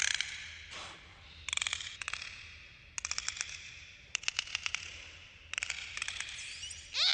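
Dolphins clicking in rapid trains, several bursts a second or so apart, with a rising whistle near the end.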